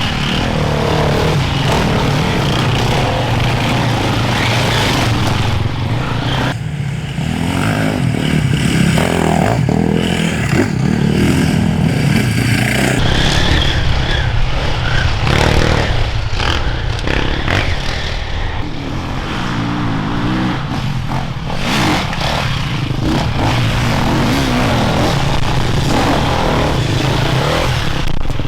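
Enduro motorcycle engines revving and running as bikes ride through on the trail, the pitch rising and falling with the throttle.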